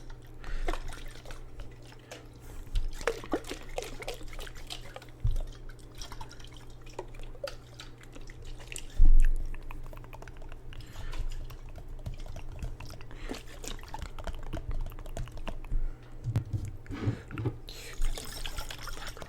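Water in a jar, dripping and sloshing for ASMR, with scattered light taps and clicks and one low thump about halfway through.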